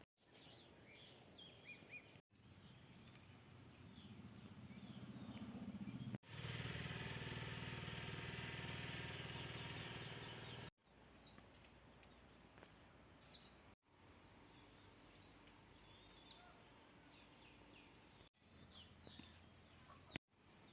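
Songbirds chirping and calling in short bursts over faint outdoor background, broken by several abrupt cuts. For about five seconds near the middle a steady rushing noise is the loudest thing.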